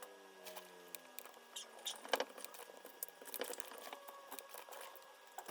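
Light, irregular clicks and taps, as of small objects being handled, with a few sharper ticks about two seconds in and again about three and a half seconds in.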